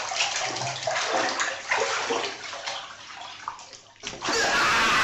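Water splashing and sloshing in irregular bursts, then about four seconds in, a sudden switch to a loud steady rushing noise.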